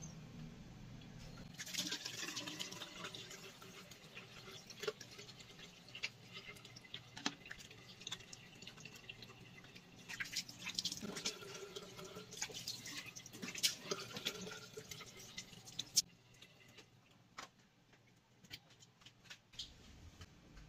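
Water running from a tap into a bathroom sink, with small splashes as a face is washed by hand. The water stops about three-quarters of the way through, leaving only a few faint knocks.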